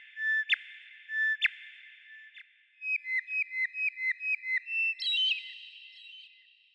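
A songbird whistling clear notes: three held whistles about a second apart, each ending in a sharp upward flick. About three seconds in comes a quick run of roughly nine short notes, with a heavy echo trailing each note.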